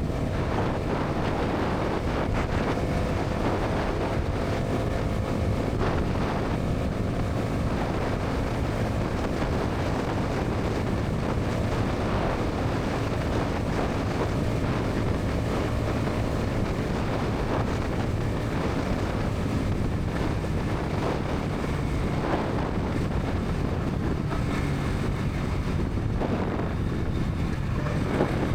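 Bajaj Pulsar NS 200's single-cylinder engine and exhaust running steadily at highway speed, with heavy wind rush on the microphone.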